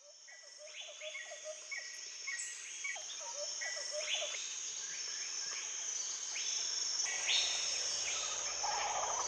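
Rainforest ambience fading in: a steady high insect drone with many short, repeated bird calls and chirps over it.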